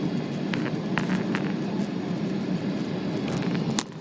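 Steady low rumble of a Boeing 777-300's engines and airflow heard inside the passenger cabin, with a few faint clicks. The level drops suddenly near the end.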